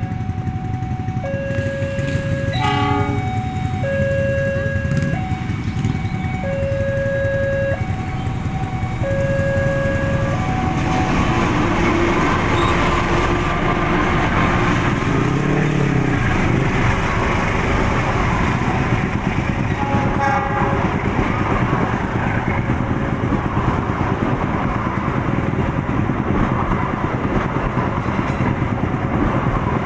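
A level-crossing warning alarm alternates between two tones about once a second, then stops about 10 seconds in. A diesel passenger train then runs past slowly with a steady rumble and wheel noise. There are short horn toots about 3 seconds in and again about 20 seconds in.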